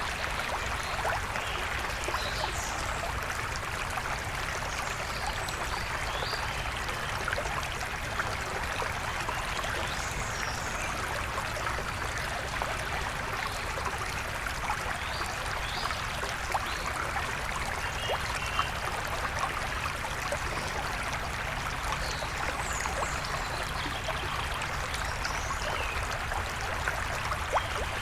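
Steady rush of a flowing river or stream, with brief, scattered high chirps of birds calling over it.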